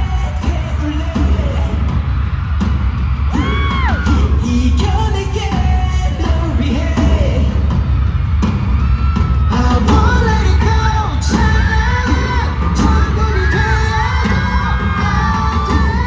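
Live pop song at a concert, recorded from the audience: male vocals singing over a loud, bass-heavy backing track.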